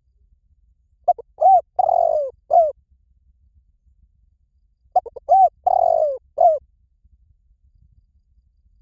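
Spotted dove cooing: two phrases about four seconds apart, each a couple of short coos, a longer one, then a short final coo. This is a call used to lure the birds in.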